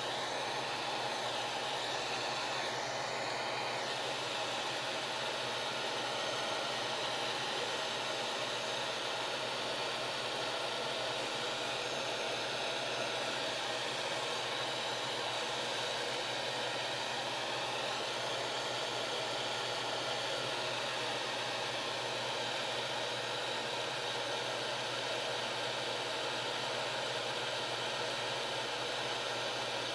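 Hot air soldering gun blowing steadily, a constant airy hiss from its fan.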